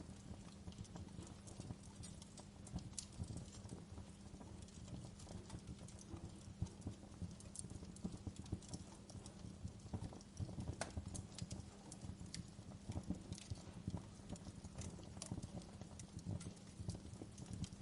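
Wood fire crackling: many irregular sharp pops and snaps over a low steady rumble of burning logs.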